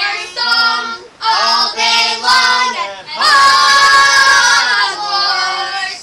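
A child's voice singing in short phrases, then holding one long loud note from about three seconds in to about five seconds in.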